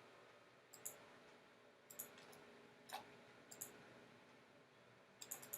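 Computer mouse clicking, often in quick double clicks, about once a second over a faint room hum.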